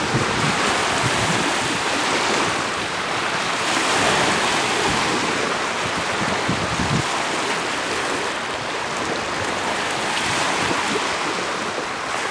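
Lake Huron waves washing steadily onto the beach, with wind gusting on the microphone.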